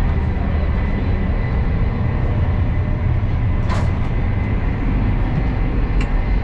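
Euroduplex TGV high-speed train running, heard from inside the carriage as a steady low rumble and hiss, with a brief sharp sound a little past halfway.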